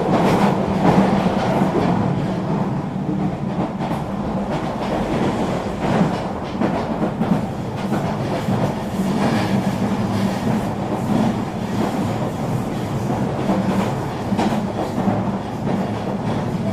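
Eurobahn regional electric train running along the track: a steady rumble of wheels and running gear with faint scattered knocks from the rails.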